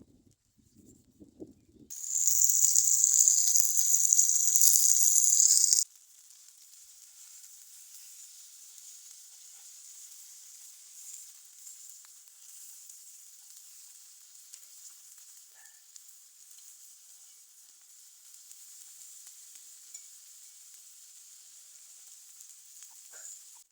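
Food frying in a hot pan: a loud sizzle for about four seconds that cuts off abruptly, then a quieter steady sizzle.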